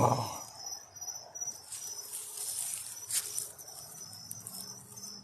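Crickets chirping in a steady, pulsing chorus, with a brief click about three seconds in.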